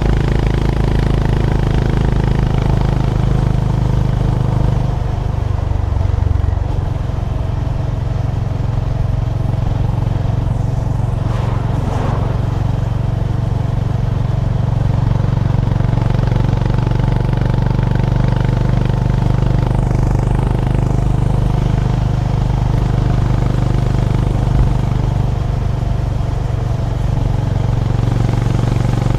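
Honda GB350's air-cooled single-cylinder engine running steadily under way, with the engine note dipping briefly about five seconds in before settling again.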